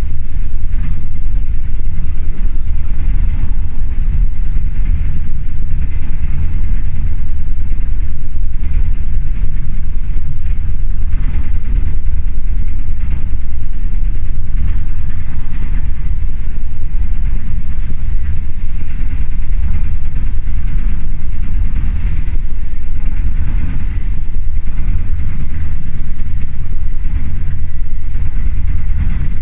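An old passenger train carriage running along the track: a loud, steady low rumble of the wheels and the shaking car body.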